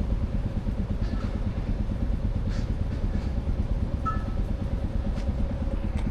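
Royal Enfield Classic 350's single-cylinder engine running with an even, rapid low beat.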